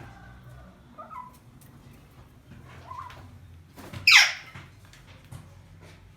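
A bird's loud, harsh screech, sweeping steeply downward in pitch and lasting under half a second, once about four seconds in. Fainter short calls come before it, at about one and three seconds.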